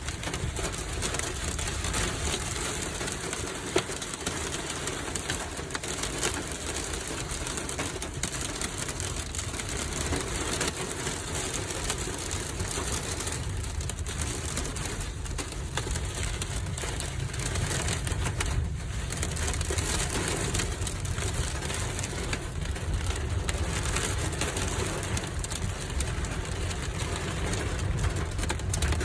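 Strong storm wind blowing over the microphone: a steady rushing noise with a heavy, buffeting rumble underneath.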